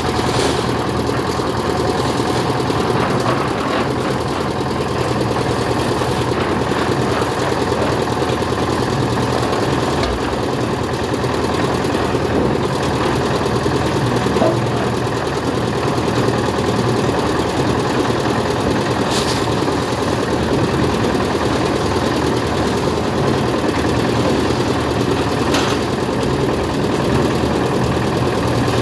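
An engine running steadily, with an even hum and no change in speed.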